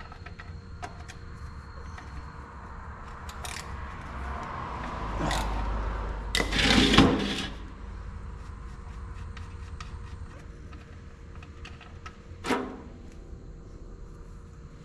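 Metal hand tools clinking and scraping while working at the drain plug of a Kubota excavator's oil pan, with a louder scraping rush about six to seven seconds in and a single sharp knock near the end.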